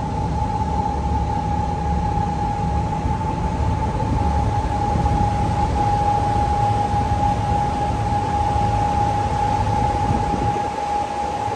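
River ferry under way: a low engine rumble with rushing wind and water noise, and a steady high whine that holds one pitch.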